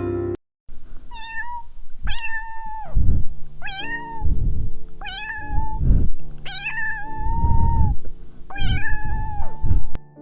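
Cat meowing repeatedly: six high, drawn-out meows, with low rumbling noises between them.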